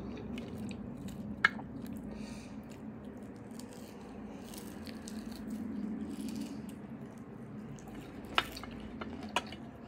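Faint wet mouth sounds of eating at close range: soft chewing and sucking at food, with a few small clicks about a second and a half in and again near the end.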